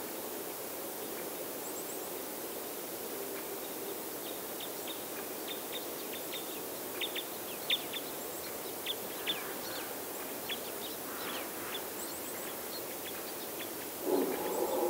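Outdoor ambience with a steady background hiss, over which a small bird gives short, high, downward-sliding call notes, several in quick runs. Near the end a louder pitched sound with several tones comes in.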